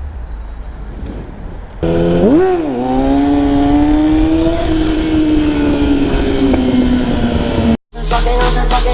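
Motorcycle engine, a Yamaha R6 inline-four, starting to sound about two seconds in with a quick rise and dip in revs. It then runs at a steady high pitch that slowly falls, and cuts off abruptly near the end, where music takes over.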